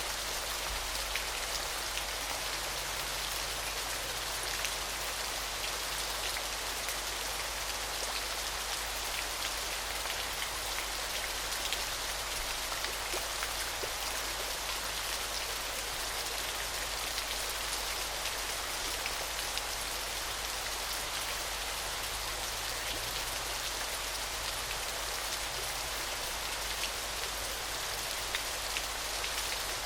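Waterfall: water falling and splashing in a steady hiss, with many small drop-like ticks scattered through it.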